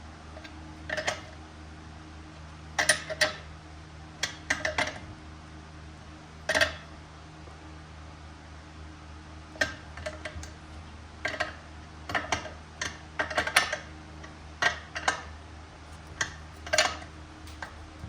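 Metal fuel-line fittings and surge-tank parts clinking and tapping as they are handled and tried for fit. About fifteen short, irregular clinks sound over a steady low hum.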